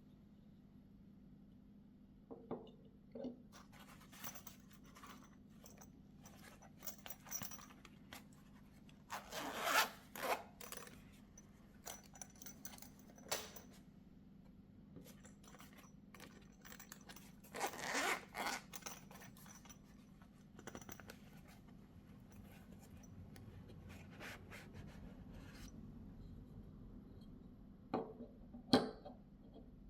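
Unboxing handling noises: packaging being rustled, scraped and opened in short bursts, with two longer rasps and a pair of sharp clicks near the end.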